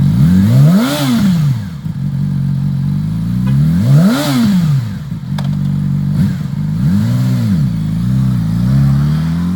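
Yamaha YZF-R6 600cc inline-four idling through a Two Brothers Racing Black Series exhaust and revved with quick throttle blips: two big ones about a second and four seconds in, then two smaller ones near the end.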